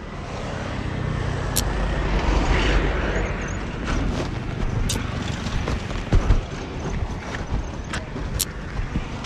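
Kawasaki Ninja 250Fi's parallel-twin engine running through an R9 H2 SS aftermarket racing exhaust. The sound grows louder over the first couple of seconds, with a few sharp clicks now and then.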